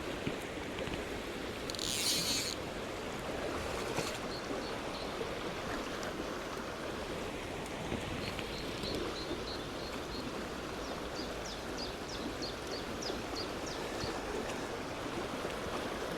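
Steady rush of a small rocky stream's flowing water, with a brief splash or scrape about two seconds in and a run of short high chirps in the second half.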